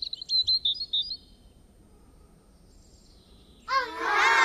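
Quick, high bird chirps and tweets for about the first second. After a faint lull, a loud pitched sound starts near the end and slides downward in pitch.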